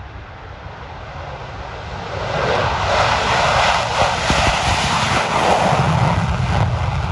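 Boeing F/A-18 Super Hornet jet taking off in full afterburner, its twin jet engines growing much louder about two seconds in and staying loud with a deep rumble.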